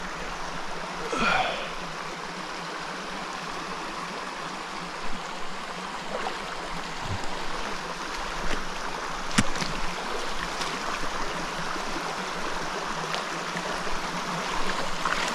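Small mountain stream running over slate rock: a steady rush of water, with one sharp click about nine seconds in.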